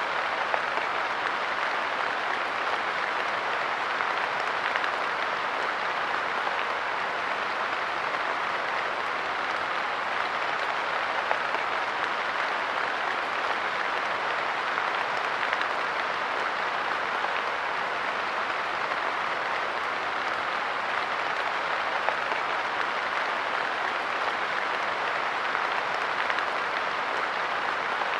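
Light rain falling steadily on a park bench: an even hiss of drops, with the odd slightly louder drip.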